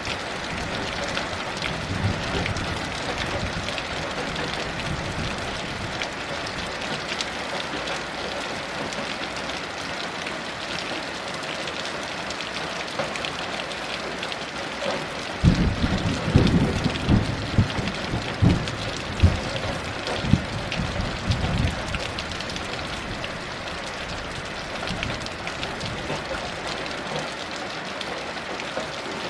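Heavy rain falling steadily. About halfway through, a rolling rumble of thunder comes in, crackles for several seconds and dies away.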